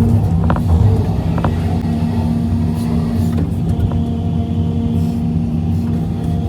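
Heavy diesel engine running steadily at constant speed, with a couple of short sharp knocks about half a second and one and a half seconds in.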